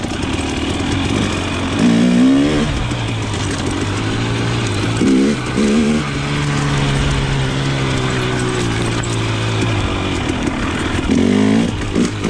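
KTM 300 XC's single-cylinder two-stroke engine running as the dirt bike is ridden. It revs up in short bursts about two seconds in, twice around the middle and again near the end, holding a steadier lower note in between.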